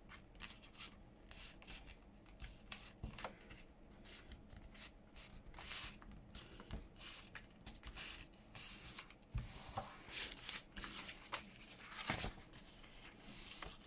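Paper pages being handled and refolded: intermittent rustling and rubbing of paper, with a few soft knocks as the sheets are adjusted.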